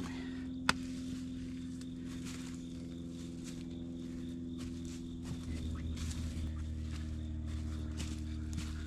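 A small engine idling steadily, with a sharp click about a second in; the idle deepens slightly a little past halfway.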